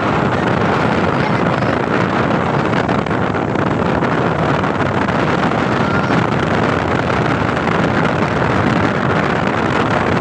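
Wind buffeting the phone's microphone: a steady, loud rushing.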